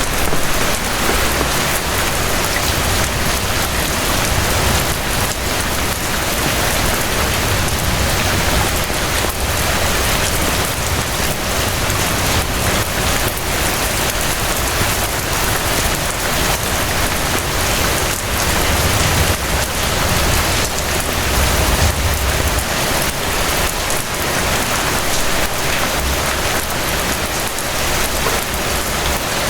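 Steady rain falling, a dense hiss full of fine drop patter, with a low rumble underneath that swells now and then.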